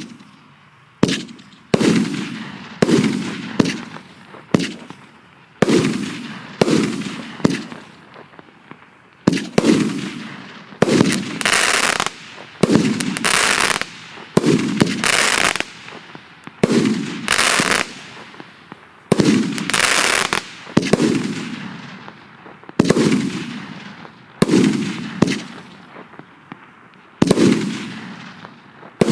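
Consumer fireworks cake firing shot after shot, about one a second: each shot is a sharp bang followed by a fading crackle and hiss, with longer stretches of crackling in the middle.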